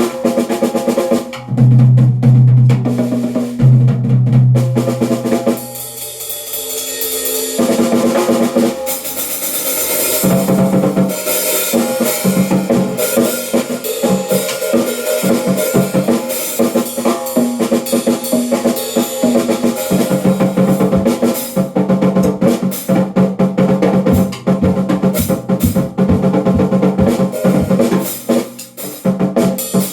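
Drum kit played continuously, with bass drum and snare hits, over held pitched notes from accompanying music.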